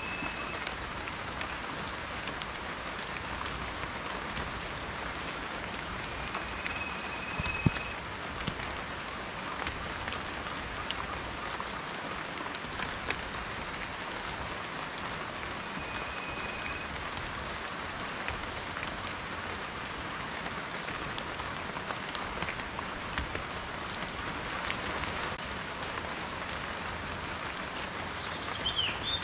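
Steady rain, with many individual drops ticking and tapping on a surface over an even hiss. A few short, high, level whistles come through, and there is a brief chirp near the end.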